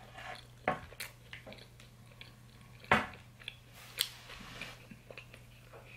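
Close-miked chewing of a whole mini bagel pizza bite (toasted mini bagel with tomato sauce and vegan cheese), with irregular sharp mouth smacks and clicks.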